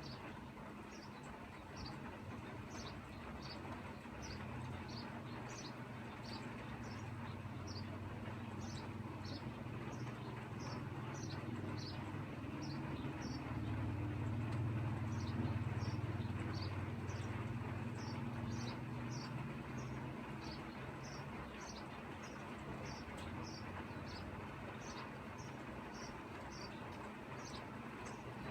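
Light steady rain hiss with a run of short high chirps from a small creature, one or two a second throughout. A low rumble swells up about halfway through and then eases off.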